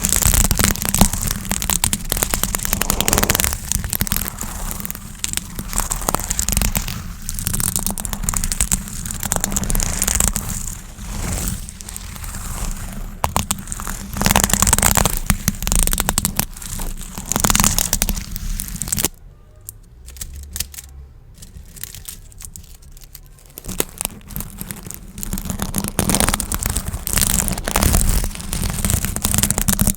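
Close-miked crinkling and crackling of plastic gift bows being handled and squeezed, a dense run of small crackles and clicks that drops away for a few seconds about two-thirds through before picking up again.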